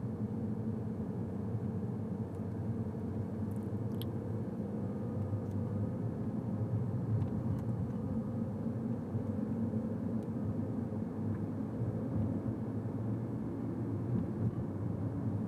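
Car driving slowly on a residential street, heard from inside the cabin: steady engine and tyre rumble.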